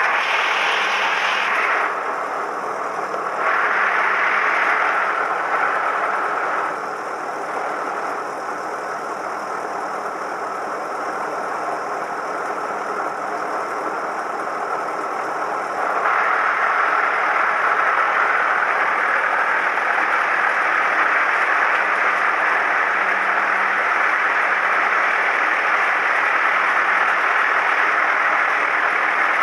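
Cessna 172M's four-cylinder Lycoming engine and propeller running steadily, heard as a constant drone. It is quieter for a stretch in the first half and comes back up a little past halfway.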